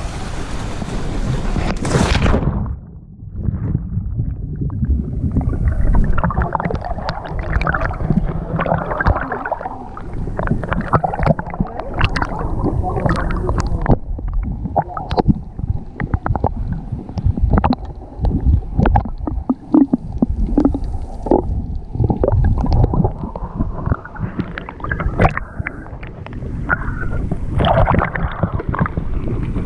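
Water splashing and sloshing with wind rumbling on the microphone, broken by many short knocks and splashes. The sound drops out briefly about three seconds in, then carries on unevenly.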